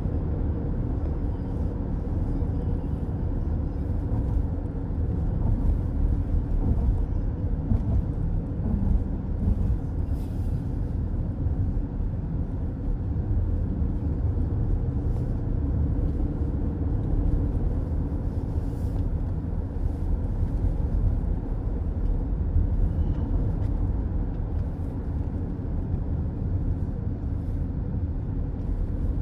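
Steady road noise of a car driving at speed, mostly a low tyre-and-road rumble, heard from inside the cabin.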